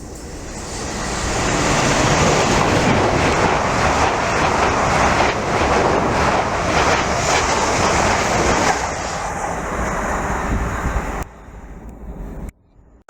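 Train passing at speed: a rushing rumble of wheels on rails that builds over about two seconds, holds steady, then cuts off abruptly near the end.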